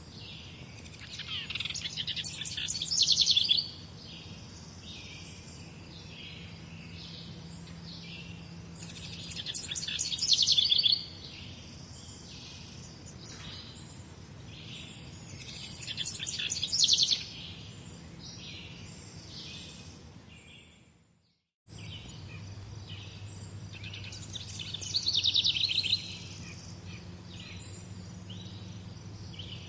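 Morning chorus of songbirds chirping, with one louder bird repeating a song phrase four times, each one swelling to a fast trill and stopping sharply. About two-thirds of the way through, the sound fades out for a moment and cuts back in.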